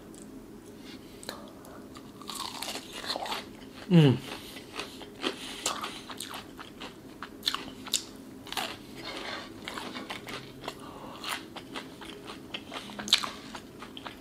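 Close-up mouth sounds of biting and chewing a crispy-breaded fried chicken nugget: many short crackly crunches, with one loud, short falling sound about four seconds in.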